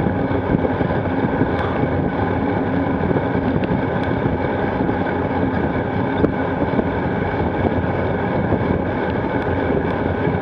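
Steady wind rush and rolling noise picked up by a bike-mounted action camera while riding a gravel bike, with a few faint ticks.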